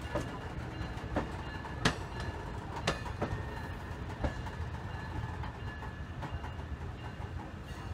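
MARC bilevel commuter coaches rolling past: a steady low rumble of wheels on rail, broken by a few sharp clacks of wheels over rail joints, mostly in the first half.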